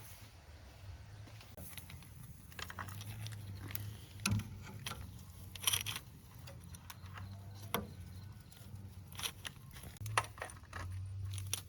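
Scattered light clicks and knocks at irregular intervals, over a low steady hum.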